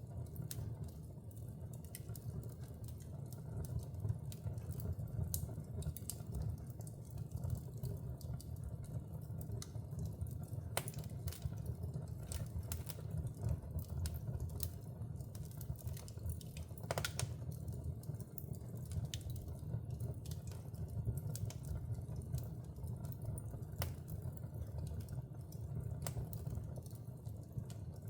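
Wood fire burning in a fireplace: a steady low rumble of flames with frequent irregular crackles and pops, a couple of them sharper than the rest.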